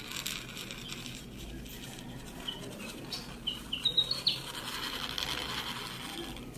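Felt-tip marker drawing a curved line on paper: a steady scratchy stroke with a few short, high squeaks of the tip around the middle.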